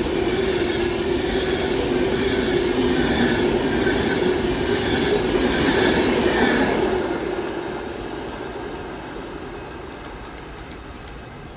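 Class 390 Pendolino electric train passing through the station over a crossover: a steady rush of wheels and running gear with some steady tones, dying away after about seven seconds as it leaves.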